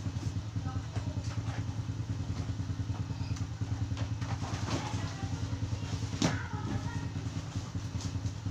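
A motorcycle engine idling steadily with a fast, even beat. A few short rustles and knocks of a bag and parts being handled, the loudest about two-thirds of the way through.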